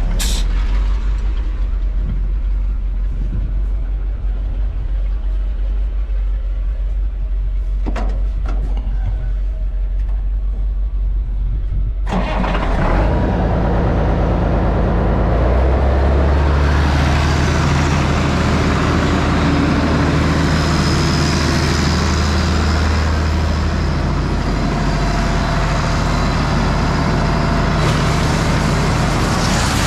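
Heavy diesel engine of farm harvest machinery running at a low idle. About twelve seconds in the sound changes abruptly, and from about fifteen seconds the engine runs faster and steadier under load, with a steady rushing noise over it.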